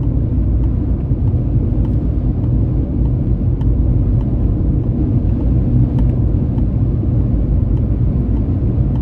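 Steady road and wind noise inside the cabin of a Nissan Magnite compact SUV cruising at highway speed. It is a constant low rumble with a fainter hiss above it.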